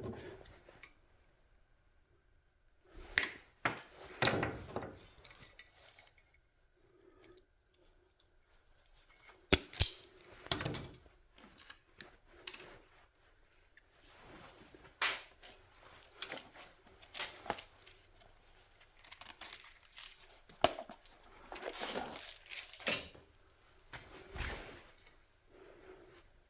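Wire being cut and handled with hand tools: scattered snips and clicks with rustling between, in irregular clusters with quiet gaps.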